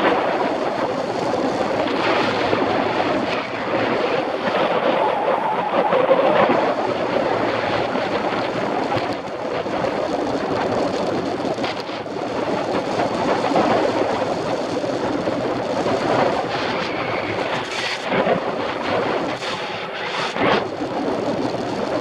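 Riding noise of a mountain bike picked up by a bike-mounted action camera: a steady rattling rumble from the bike and tyres on the trail, mixed with wind on the microphone. A few sharper knocks come near the end.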